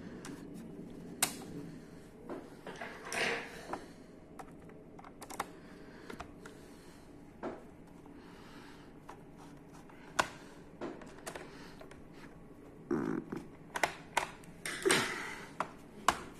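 Irregular clicks, taps and short scrapes of hands working on an opened HP laptop, handling its small plastic and metal parts and tightening screws.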